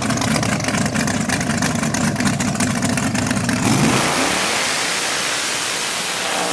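Drag-race truck's V8 engine running loud and rough at the line, then about four seconds in it launches: the pitch sweeps up and the sound turns into a broad rush of engine and exhaust noise.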